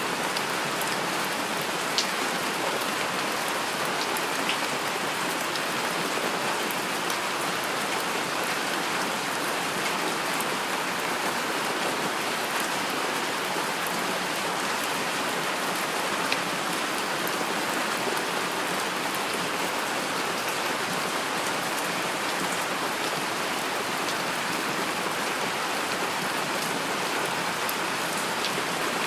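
Heavy rain falling steadily, a dense even hiss with scattered individual drop ticks, a couple of them louder, about two seconds in and again about halfway through.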